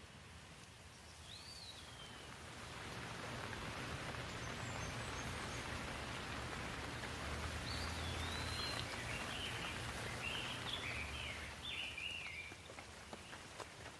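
Steady rain with a long roll of distant thunder that swells a couple of seconds in and dies away near the end. Birds chirp briefly through it.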